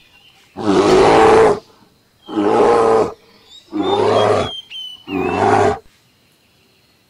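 A bear roaring four times, each roar about a second long with short gaps between, then falling quiet for the last second.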